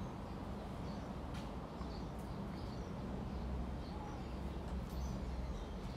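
Faint, short, high bird chirps scattered over a steady low background hum.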